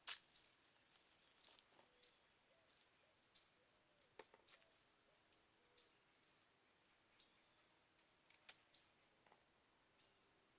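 Faint, irregular snaps and clicks of tomatoes being picked by hand from the plants, about a dozen short sounds with the loudest at the very start, over a steady faint high-pitched whine.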